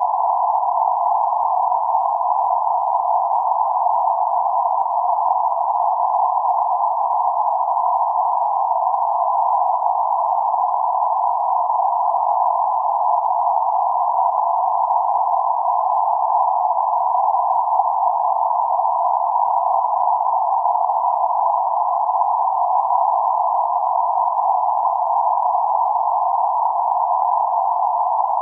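Synthetic noise centred on 848 Hz, a steady mid-pitched hiss with no low rumble or high fizz, unchanging throughout.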